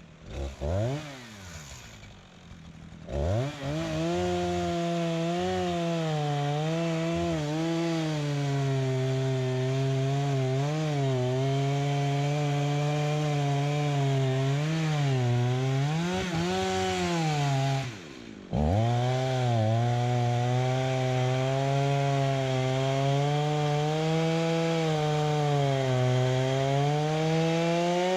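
Two-stroke chainsaw engine starting about three seconds in, then running at high revs with its pitch dipping and rising as the load changes. It drops out briefly about two-thirds of the way through and picks up again.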